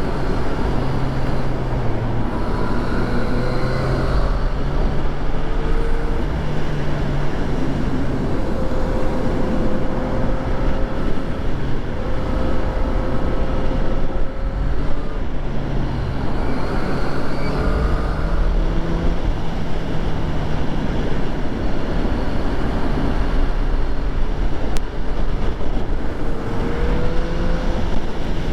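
2014 Yamaha FZ-09's three-cylinder engine running under way, its pitch rising and dropping with the throttle, over heavy wind and road noise.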